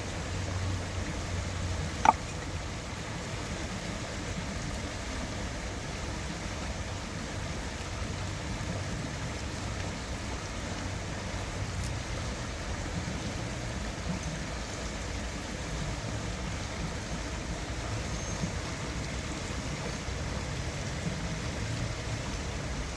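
Steady rush of stream water, with a single sharp click about two seconds in.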